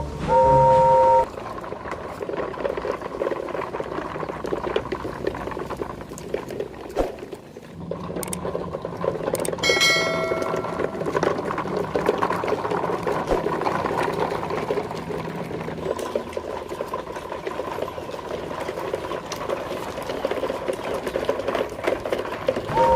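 Battery-powered toy train running with a steady motor whir and dense plastic rattle. It opens with a short loud horn-like toot, and a pitched toot comes about ten seconds in.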